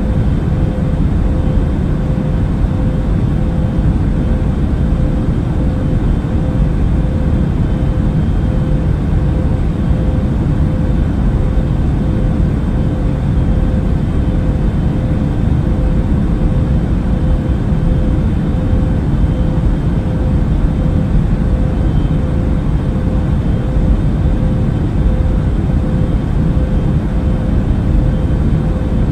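Airliner cabin noise in flight: an even, unbroken rumble of engines and rushing air, with a steady mid-pitched hum running through it.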